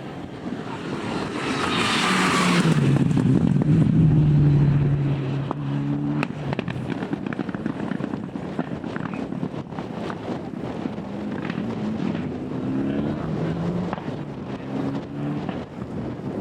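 A four-wheel-drive rally car at full throttle, loudest as it passes about two to five seconds in, then pulling away with its engine pitch rising and dropping through several gear changes.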